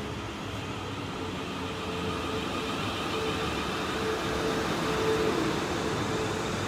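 A train running, a steady drone with a held whining tone that grows louder from about two seconds in.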